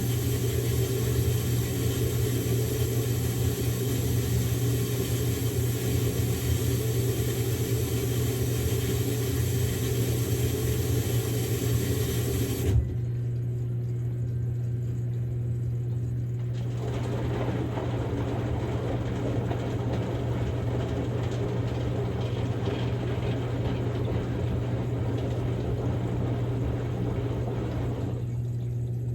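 Samsung Grande washing machine running a quick-wash cycle: a steady motor hum under the noise of the turning drum. About halfway through there is a click and the drum noise stops for a few seconds, then resumes, and it drops away again near the end.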